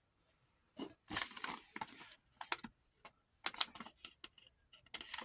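Clicks, rattles and rustling from handling an 8mm film viewer and its film, in short irregular bursts with a few sharp clicks.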